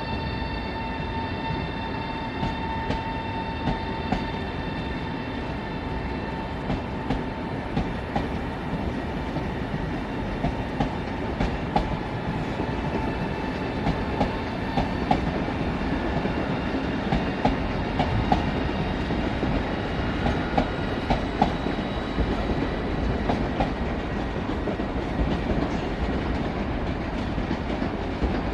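Electric passenger train rumbling past on the station track, its wheels clicking irregularly over rail joints and points. A steady high whine fades away within the first several seconds.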